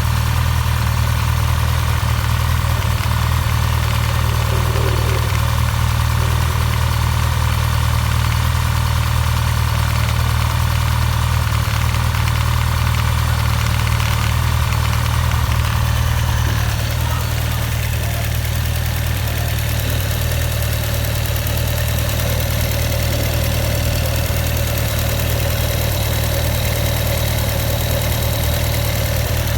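2016 Honda CB1100EX air-cooled inline-four engine idling steadily, with an abnormal noise in its running that the owner has singled out. It drops a little in loudness about halfway through.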